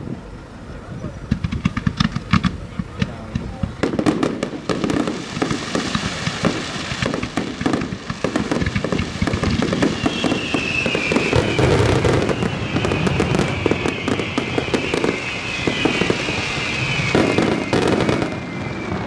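Fireworks display: scattered bangs, turning into a dense run of rapid crackling and bangs about four seconds in. From about halfway, a high whistle falls slowly in pitch over the din.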